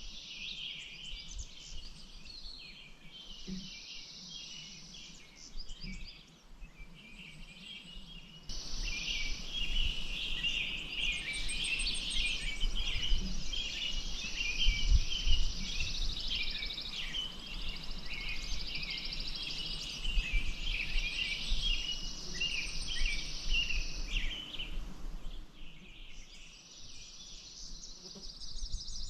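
Many small birds chirping and calling at once over a steady high hiss. About eight seconds in, the chorus gets louder and a low rumble joins it; both drop back a few seconds before the end.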